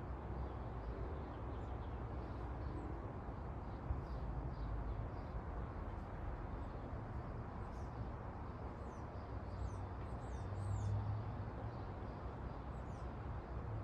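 Outdoor garden ambience: a steady low background hum with faint, short, high bird chirps several times in the second half.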